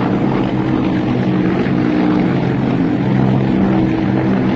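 Helicopters flying overhead: a loud, steady drone of engines and rotors.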